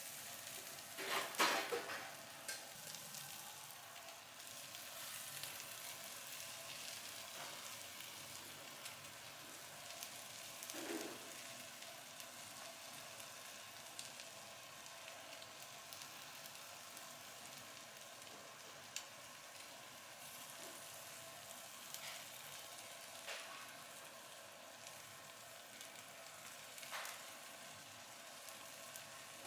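Food sizzling steadily with a high, even hiss, broken by scattered light clicks and knocks, the loudest a clatter about a second and a half in.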